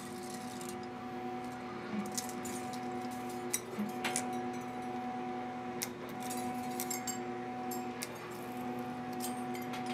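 Metal lathe drilling steel with a 1-inch drill bit at slow spindle speed: a steady machine hum with scattered sharp metallic clicks and clinks from the chips.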